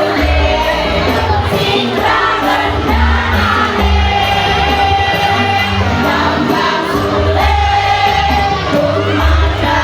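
A choir singing held notes over loud amplified backing music with a heavy bass.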